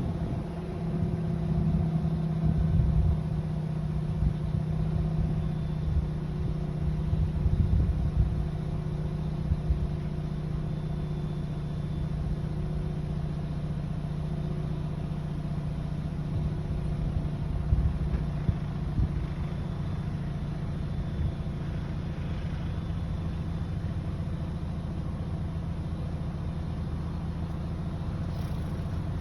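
Car engine running steadily with a low, even hum and some low rumble.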